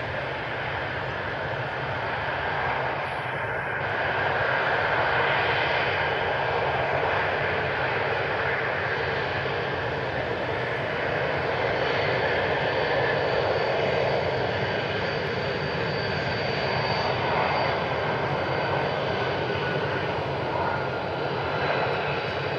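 Fighter jet engine noise, a steady rushing sound that swells slightly about four seconds in, with a faint high whine from about twelve to sixteen seconds in.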